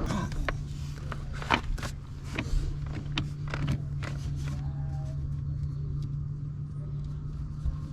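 A steady low hum, with scattered sharp clicks and knocks during the first few seconds.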